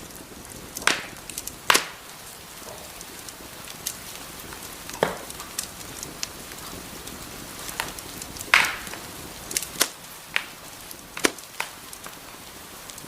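Wood fire in a fireplace crackling over a steady hiss, with irregular sharp pops, the loudest about two seconds in and again past the middle.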